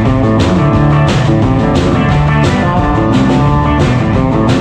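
Live band playing a country song: guitar over bass and drums, with a steady beat.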